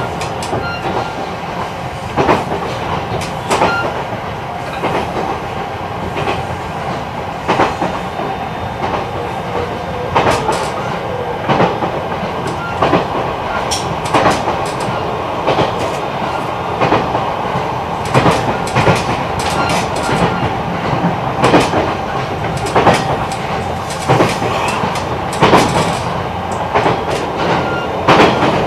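E129 series electric multiple unit with Toyo Denki IGBT VVVF control, heard aboard at running speed: a steady rolling noise with a faint steady hum and irregular clicks of the wheels over rail joints.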